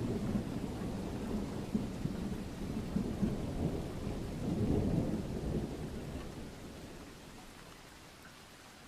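A distant roll of thunder rumbling over steady rain, swelling about halfway through and then fading away, leaving the rain hiss.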